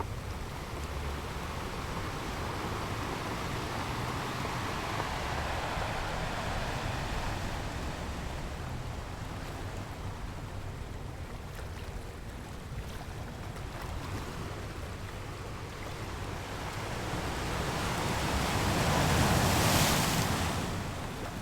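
Sea surf washing onto a sandy beach, a steady rushing noise that swells and eases as waves come in. A louder wave builds and breaks near the end, then dies back.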